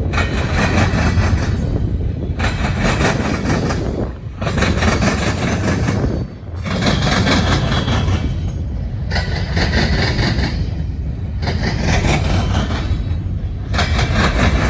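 Freight train rolling past close by, its cars going by one after another, so the wheel and rail noise rises and falls every couple of seconds.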